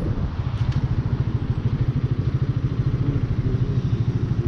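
Hanwey 250cc motorcycle's single-cylinder, air-cooled four-stroke engine running at a steady speed with an even, rapid pulse.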